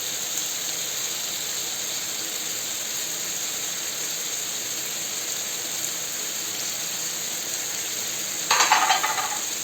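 Seafood and vegetables sizzling steadily in a frying pan, the calamari pieces just added to the paella base. A brief louder clatter comes near the end.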